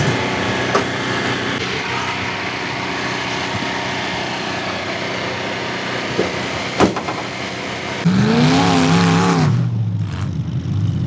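Car engines running, with a couple of sharp knocks. About eight seconds in, one engine revs up loud, its pitch rising and wavering, then drops back.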